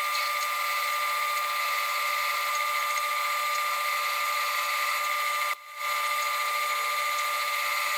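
Electric drill motor running at a steady speed with a high whine, stopping briefly about five and a half seconds in and then starting again.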